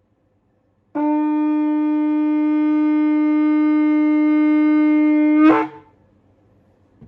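Large SJ-size shofar, the tuned right-hand horn of a pair nearly 50 inches long, blown in one long steady note of about four and a half seconds that ends in a short sharp break as the blast cuts off.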